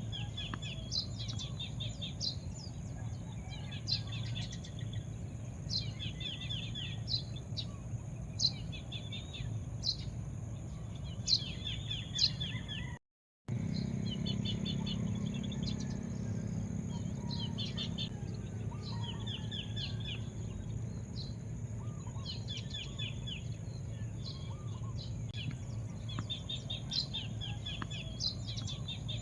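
Wild birds chirping outdoors: short, quick calls repeated again and again from several birds, over a steady high-pitched drone and a low background rumble. The sound cuts out completely for a split second about halfway through.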